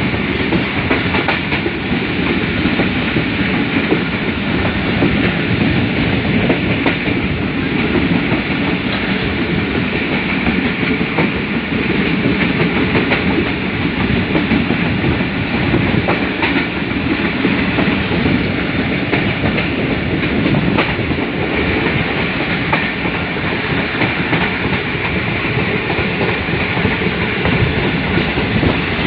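Millat Express passenger train running at speed, heard from aboard: a steady rumble and clickety-clack of its wheels on the track.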